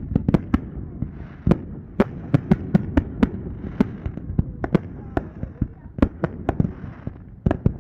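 Fireworks going off in quick, irregular succession: many sharp bangs and pops, several a second, over a constant low rumble.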